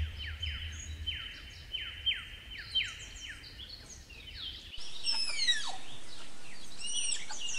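Birds calling outdoors: a descending whistle repeated two or three times a second over a faint hum. About five seconds in, it changes abruptly to a busier chorus of chirps and sweeping whistles.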